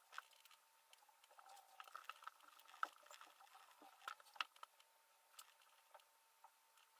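Faint, scattered light clicks and ticks of hand work on a small brushless motor's stator and winding wire, with near silence between them; the sharpest clicks come about three and four seconds in.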